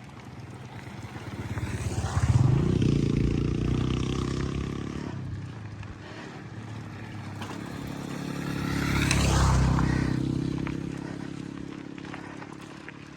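Two motor vehicles driving past one after the other, each engine growing louder as it approaches and fading as it goes by, the first peaking about two seconds in and the second near the middle.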